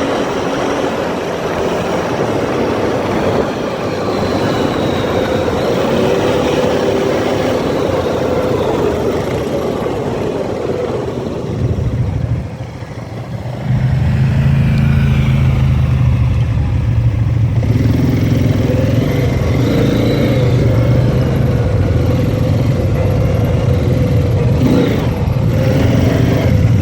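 ATV engine running under way, with a dense rushing noise over it. About 13 seconds in it dips briefly, then comes back louder as a steady low drone.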